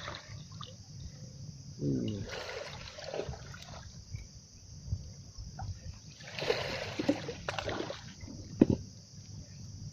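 Sea water lapping and trickling, with a few brief noisy bursts and one sharp knock near the end.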